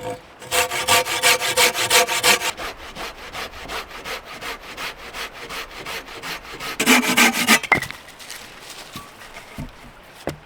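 Hand saw cutting through a firewood log in quick, even back-and-forth strokes. The strokes are loudest over the first couple of seconds and again in a short burst about seven seconds in, then stop about eight seconds in.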